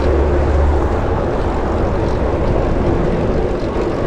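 A steady drone that sounds like an airplane passing overhead, heard under wind noise rushing on the microphone.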